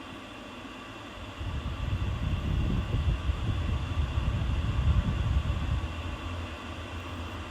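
Bladeless tower fan running with a steady whirr. About a second and a half in, a loud, uneven low rumble of air buffeting the microphone joins it and keeps going.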